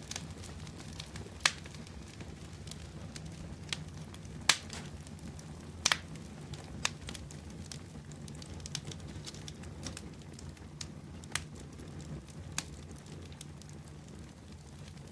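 Wood bonfire crackling: sharp pops at irregular intervals, a few much louder than the rest, over a low steady rumble.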